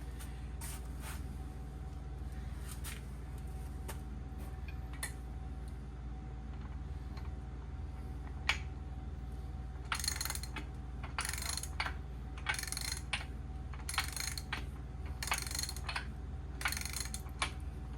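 Ratchet wrench on the engine's main bearing cap bolts: a few scattered clicks, then six short ratcheting strokes about a second and a half apart from about halfway through, as the caps are torqued to 70 foot-pounds.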